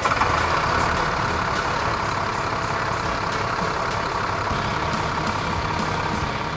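Truck engine sound effect, starting abruptly and running steadily with a low rumble.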